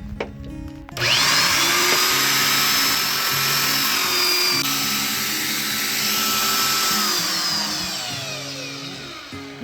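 A handheld electric power tool switches on about a second in, its whine rising as it spins up, then runs steadily with a loud hiss. Near the end it is released and its whine falls away as it winds down.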